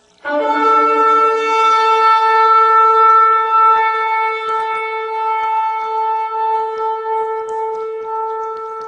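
A shofar (ram's-horn trumpet) sounding one long blast: it starts about a third of a second in with a quick upward scoop to its pitch, then holds a single loud note with a slight wavering in the second half.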